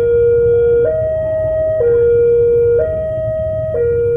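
Railway level-crossing warning alarm sounding a two-tone electronic signal that alternates between a lower and a higher note about once a second, the warning that a train is approaching. A low rumble runs underneath.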